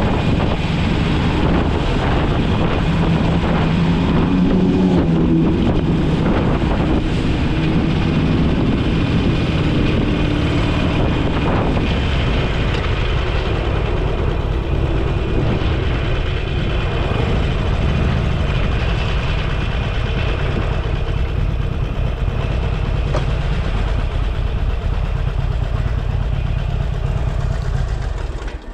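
Motorcycle engine running under way with wind and road noise. The engine note rises briefly about five seconds in, then holds steady, and the noise drops away sharply right at the end.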